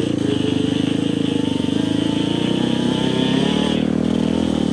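Dirt bike engine running under load on a steep trail climb, holding fairly steady revs that rise and fall slightly.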